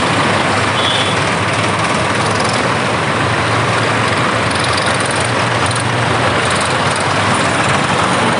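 Tractor engines running, a loud steady din of engine noise with no let-up.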